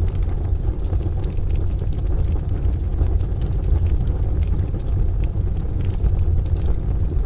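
Crackling wood fire, with frequent small sharp pops and snaps, over a steady low rumble of rain and distant thunder.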